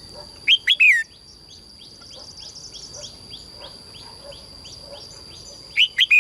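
A songbird sings a loud, short phrase of three or four quick down-slurred whistled notes about half a second in, and repeats it near the end. Between the phrases comes a faint run of rapid, evenly spaced chirps. A steady high-pitched tone runs underneath.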